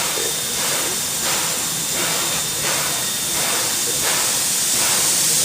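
Steam hissing from New Zealand Railways Ab-class steam locomotive Ab608 'Passchendaele' as it is about to start away. The hiss is steady and loud, with a faint regular pulse a little under a second apart.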